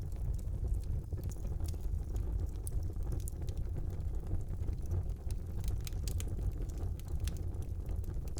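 Wood fire burning in a brick fireplace: a steady low rumble of flames with frequent sharp crackles and pops, coming thicker in the second half.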